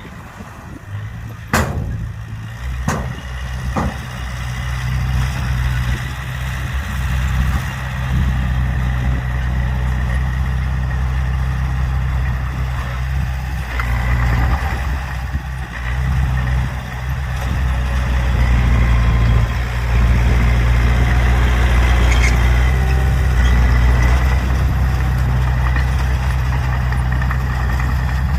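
Engine running steadily with a low rumble that builds over the first few seconds, and three sharp knocks or clicks in the first four seconds.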